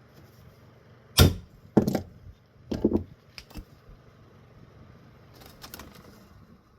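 Sharp metal knocks of a flathead screwdriver striking a high spot on a ceiling fan motor's housing: three hard knocks about a second apart, then a few lighter taps and small clicks. The spot is being knocked down to fix the bearing alignment.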